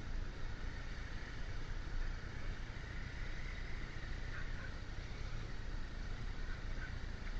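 Motorcycle on the move at a steady pace: the engine runs evenly under a constant rush of wind noise.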